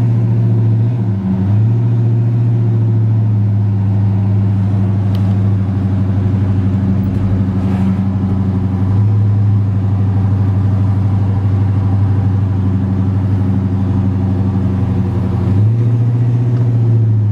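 A 1972 Chevrolet C10's 350 V8 with a mild cam, breathing through headers and Flowmaster dual exhaust, heard from inside the cab while driving: a steady low engine drone whose note changes briefly about a second in and again near the end.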